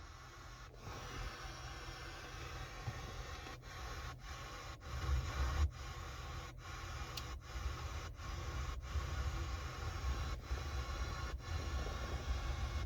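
3.6-litre V6 idling, heard inside the car's cabin as a low steady hum under a faint hiss.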